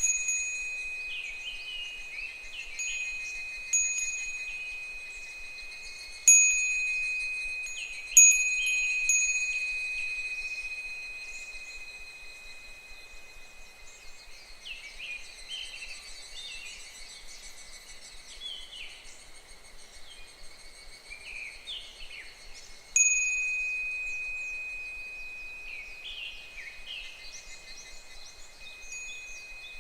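Japanese fūrin wind bell ringing with a clear high tone. It is struck several times, most sharply about a quarter of the way in and again about three quarters in, and each strike rings on and slowly fades. Behind it, higurashi (evening cicadas) call in quick falling series, thickest in the middle and near the end.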